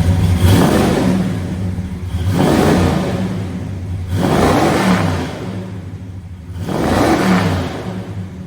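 1971 Chevrolet Chevelle Malibu's engine and exhaust, revved from idle four times, each rev rising in pitch and dropping back to idle.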